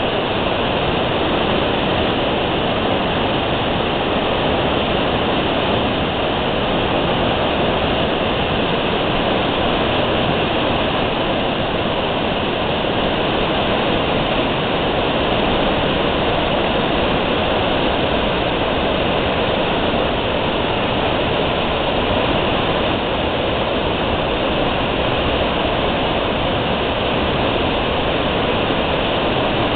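Mikaeri Falls waterfall pouring: a loud, steady rush of falling water that never breaks or changes.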